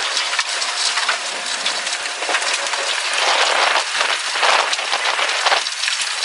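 Rain and wind-blown grit striking the outside of a car close to a tornado: a dense stream of small ticks over a steady hiss, growing louder in the middle.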